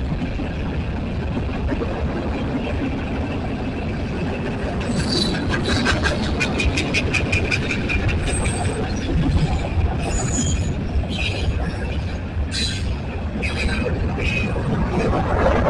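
Freight cars of a Union Pacific manifest train rolling past on the closest track, a steady rumble of steel wheels on rail. From about five seconds in come rapid sharp clicks and brief high-pitched wheel squeals.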